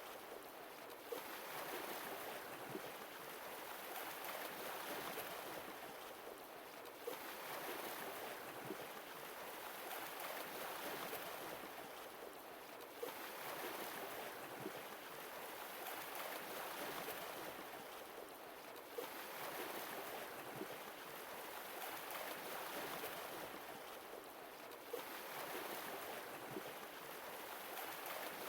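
Sea waves washing in and drawing back, the surf swelling and fading about every six seconds, with a faint click as each swell begins.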